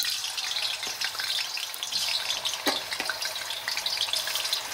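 Marinated chicken breast pieces sizzling as they go into hot oil and ghee in a karahi, a steady frying hiss full of small crackles; one sharp click about two and a half seconds in.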